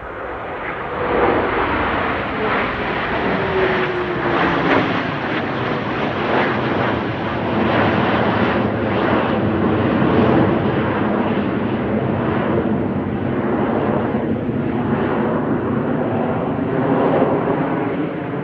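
Aircraft flying past, a loud, sustained engine noise, with a tone that falls in pitch over the first few seconds as it passes.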